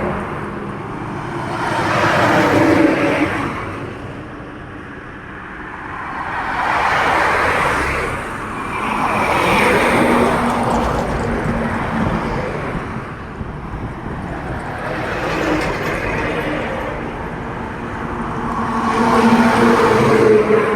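Heavy trucks and other highway traffic passing one after another: engine and tyre noise swells up and fades away about five times, with the loudest passes about two seconds in and near the end.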